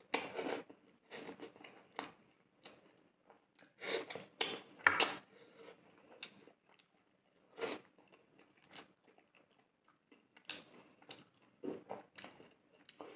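Close-miked eating by hand: a person chewing and biting a mouthful of rice and fish curry, in irregular short bursts with quiet gaps between, loudest about five seconds in.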